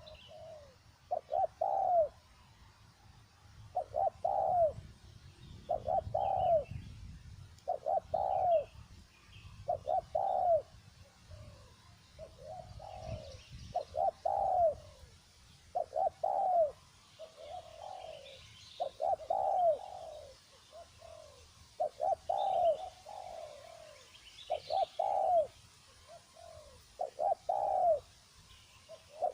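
Spotted dove cooing over and over, a phrase of arched coos about every two seconds, with faint chirps of small birds behind it.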